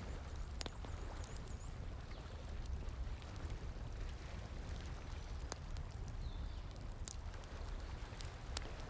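Campfire crackling, with a few sharp pops spread through, over the steady rush of flowing water. A few faint high chirps are heard in the background.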